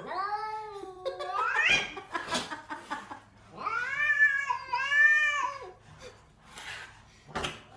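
A cat meowing: one long drawn-out call that rises in pitch at its end, then two shorter meows about four to five seconds in.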